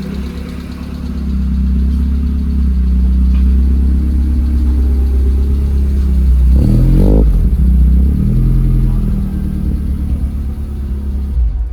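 Car engine running steadily and louder from about a second in, with a quick rev about six and a half seconds in.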